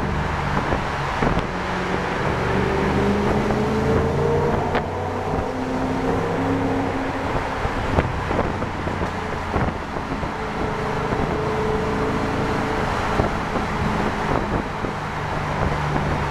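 2007 Audi S4's 4.2-litre V8 running through a Fast Intentions/JHM full-back exhaust, pulling under throttle with the exhaust note rising slowly twice.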